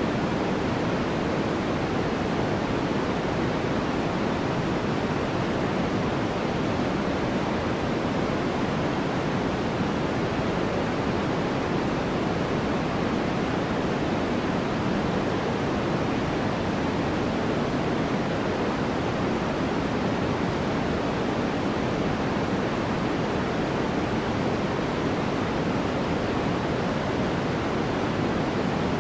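Steady, unchanging white noise for sleep: an even hiss that is heavier in the lows than the highs, like pink noise.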